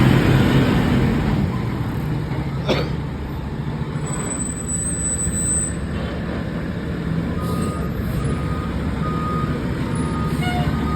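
Fire engine running with a steady low engine rumble. One short sharp burst comes near three seconds in, and about seven seconds in its reversing alarm starts, a high beep repeating roughly every two-thirds of a second as the engine backs up.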